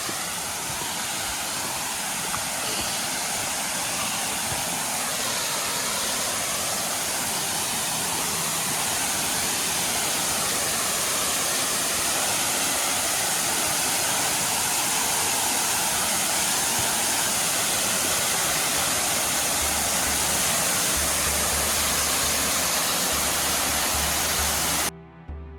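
Water pouring over a spillway waterfall: a loud, steady rush. It cuts off suddenly near the end as music begins.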